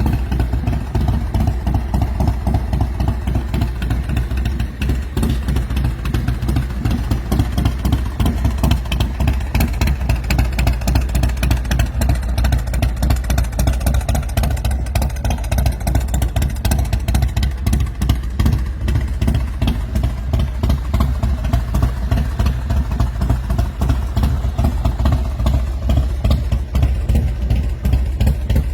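S&S 111 V-twin engine of a custom chopper running steadily, with a fast, even beat of firing pulses.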